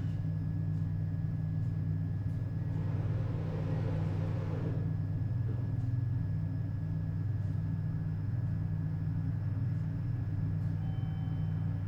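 A JR Hokkaido 721-series electric train car standing still with a steady low hum and faint steady high whines from its onboard equipment. A short swell of hissing noise comes about three seconds in.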